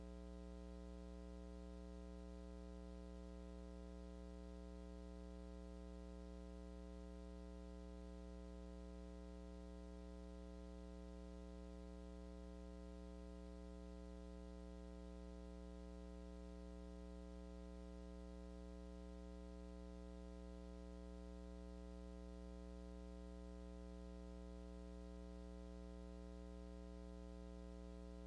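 Steady electrical hum with a low buzz and its overtones, unchanging throughout: mains hum in the sound system or recording feed, with nothing else heard over it.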